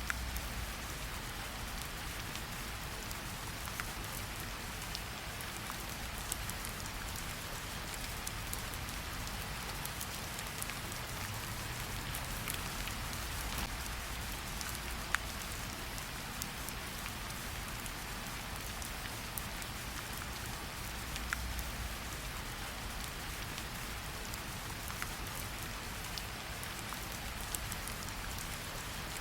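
Steady rain: an even hiss dotted with many sharp ticks of single drops striking, over a low rumble.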